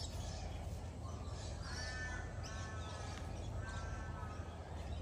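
A bird calling three times, each call drawn out for about half a second or more, over a steady low hum.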